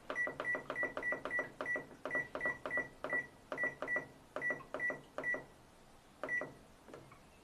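Washing machine control panel beeping over and over in quick succession, a short click and one-pitch beep for each step, as the programs are stepped through to find the spin-only setting.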